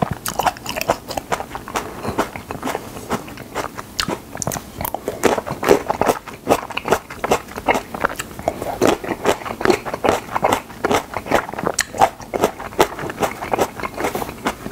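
Cherry tomatoes being bitten and chewed, close to a clip-on microphone: a dense run of quick mouth clicks.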